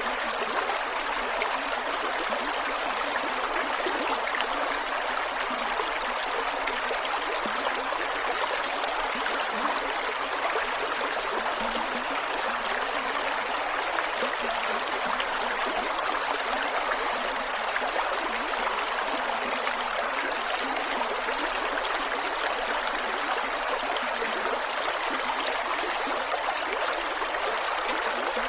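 Creek water flowing over rocks, a steady rushing babble with gurgles.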